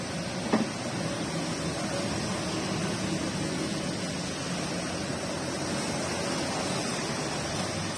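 Steady rain falling, an even hiss of downpour. A brief sharp sound cuts through about half a second in.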